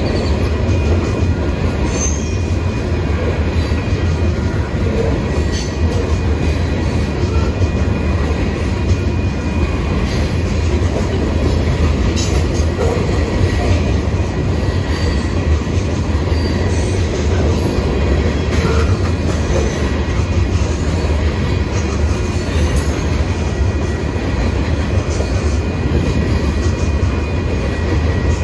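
Loaded covered hopper cars of a grain train rolling past at track speed: a steady rumble of steel wheels on rail with a faint, steady high squeal from the wheels. The train is drifting downgrade, so no locomotive is working hard.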